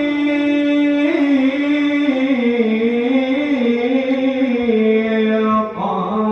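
Solo male voice singing a long melismatic held note in Arabic maulid recitation, with the pitch sliding and ornamenting up and down. Another voice comes in near the end.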